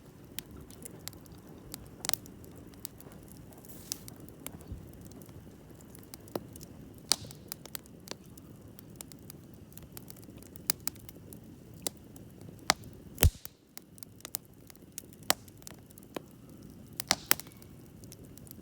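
Wood campfire burning: a steady low rush of flame with irregular sharp crackles and pops, one louder pop about thirteen seconds in.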